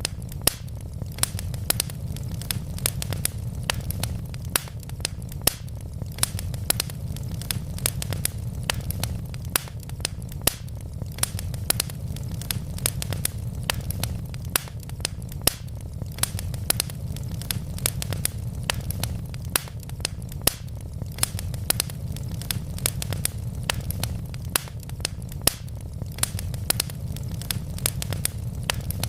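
Wood fire crackling: burning logs give off frequent sharp pops and snaps, several a second, over a steady low rumble.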